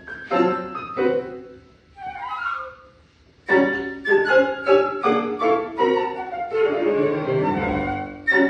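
Flute and piano playing contemporary classical chamber music: short detached notes, a quick rising flute flourish about two seconds in, a brief pause, then a dense stream of sharply struck repeated notes and chords.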